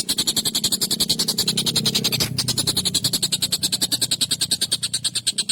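Tengkek buto calling in a rapid, harsh chatter of short notes, about eleven a second, unbroken throughout.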